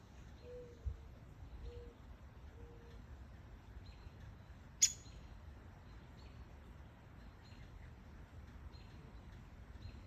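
Faint outdoor birdsong. Three soft, low hooting notes come about a second apart in the first three seconds, and faint short high chips sound now and then. A single sharp click, the loudest sound, comes about halfway through.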